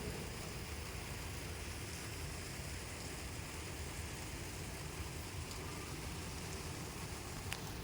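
Steady rain falling, an even hiss with a low rumble underneath and a few faint drip-like ticks near the end.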